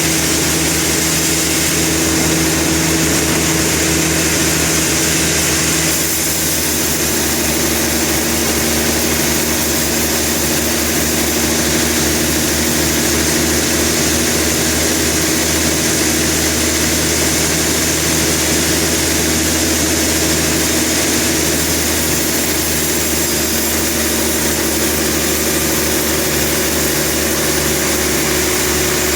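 Sawmill machinery engine running steadily, its hum shifting slightly in pitch about six seconds in.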